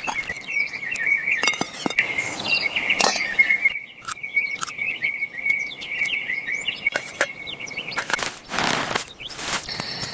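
Birds chirping over a steady high-pitched chorus, with scattered short clicks and a brief burst of noise near the end.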